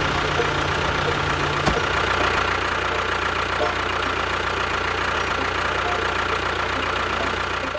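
An engine running steadily, with a continuous high whine over it. A low hum under it drops away about two seconds in.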